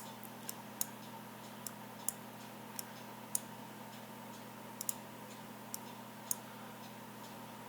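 Computer mouse clicking: about a dozen single sharp clicks at irregular intervals, over a faint steady hum.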